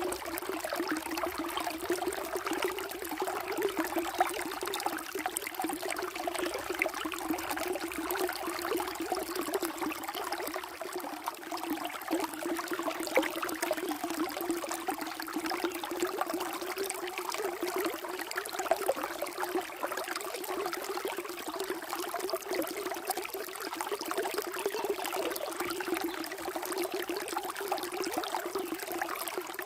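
Water flowing steadily, an unbroken trickling rush.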